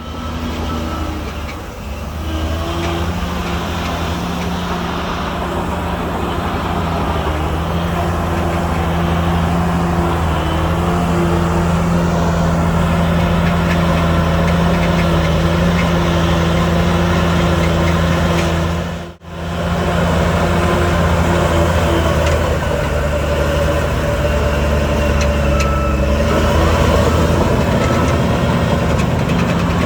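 Heavy diesel engine of earth-moving equipment running steadily at working speed, with a brief dropout about two-thirds of the way in.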